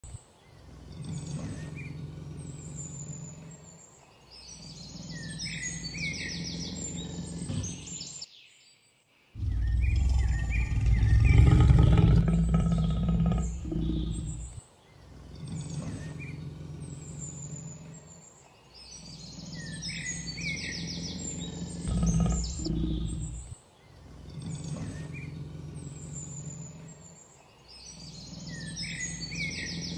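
Small birds chirping over a steady low background noise, in a pattern that repeats every four to five seconds. A louder stretch of low rumbling noise comes about ten seconds in.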